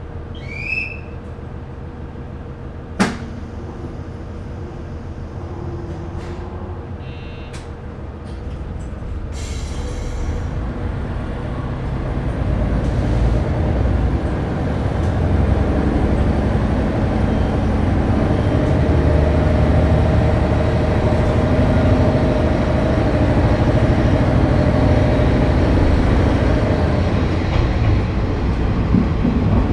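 KiHa 30 diesel railcar standing at a station and then pulling away: a sharp clack about 3 seconds in, a few lighter clicks and a short hiss of air near ten seconds, then the DMH17 diesel engines working up under load as the car accelerates and the rumble grows louder and steady.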